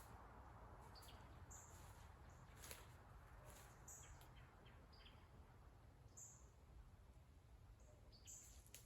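Near silence in woodland: faint, short, high bird chirps come every second or so, with a few scattered clicks over a low rumble.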